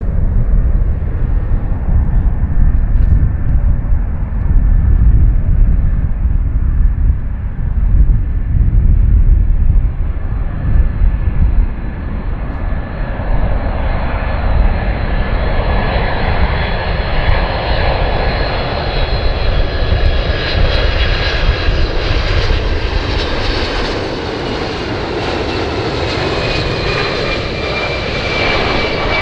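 Boeing 767 jet engines: a loud, deep rumble, then a growing roar with a high whine from about halfway, its tones sliding slightly lower near the end.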